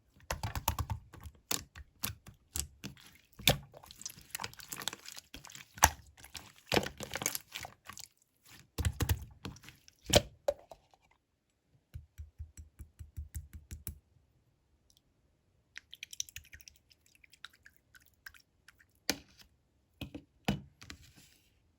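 Hands kneading, pressing and poking slime, making rapid clicking and popping sounds with wet squishes. The clicking is dense at first, then thins out to scattered pops with short pauses.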